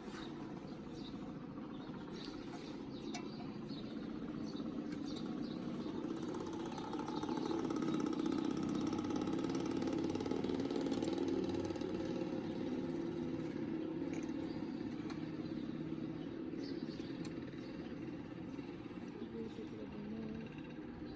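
A vehicle engine running steadily, growing louder toward the middle and easing off toward the end.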